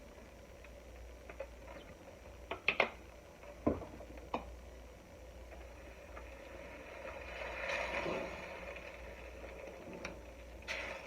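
Spoon working a thick sauce in a pot on the stove, with a few sharp clinks in the first half and a louder stretch of stirring and scraping about eight seconds in.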